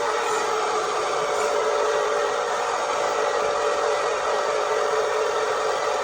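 Huina RC dump truck's small electric motor and gearbox whirring steadily.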